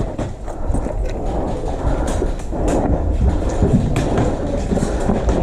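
Low rumbling movement and handling noise, with a few sharp clicks about two, two and three-quarters, and four seconds in.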